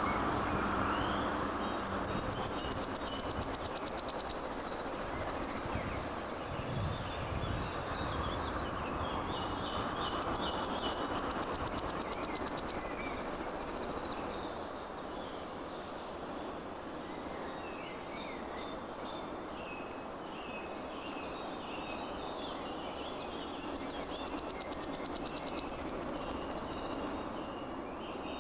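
A songbird singing the same song three times, about eight to ten seconds apart: each a high, quickening run of ticking notes that runs into a buzzy trill and stops abruptly. Fainter chirps from other birds go on underneath.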